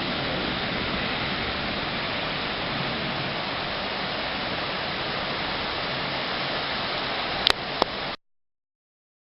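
Rain falling, a steady hiss, with two sharp clicks near the end before the sound cuts off suddenly.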